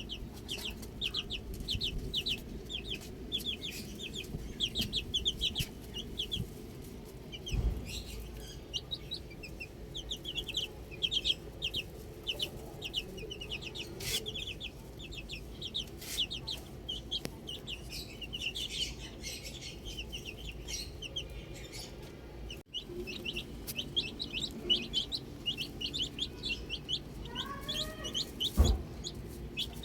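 Many baby chicks peeping continuously, a dense stream of short high-pitched chirps, with a couple of dull thumps.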